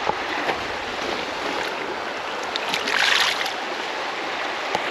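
Creek water running steadily around the wading angler, with a brief splash about three seconds in.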